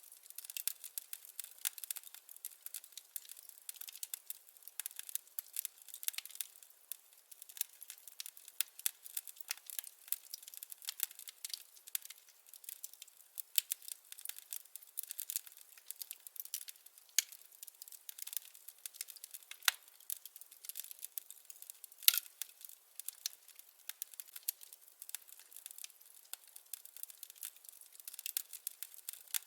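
Wood fire crackling: a constant run of small sharp pops and snaps from burning firewood, with one louder pop about 22 seconds in.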